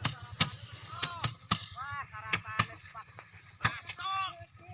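A run of sharp knocks or thwacks at irregular intervals, roughly one every half second, loudest about a second and a half in and again near the end. Short pitched calls that rise and fall come in between.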